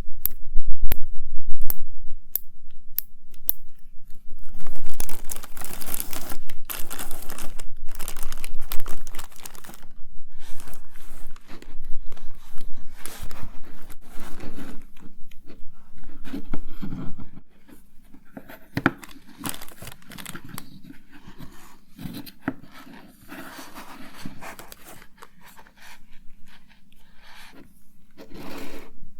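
Close-miked ASMR handling of cosmetics and their packaging: a quick run of sharp taps and clicks over the first few seconds, then rustling, crinkling and scraping, which turns quieter with a few scattered clicks after about seventeen seconds.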